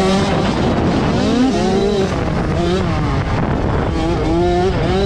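Motocross bikes' engines revving hard, the pitch climbing and dropping again every second or so as the riders open and close the throttle over the track.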